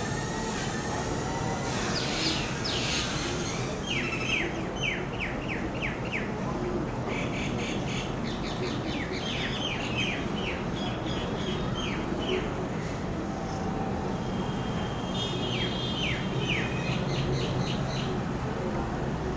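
Birds calling in quick runs of short, sharp, falling chirps, several in a row, with pauses between the runs, over a steady background rumble.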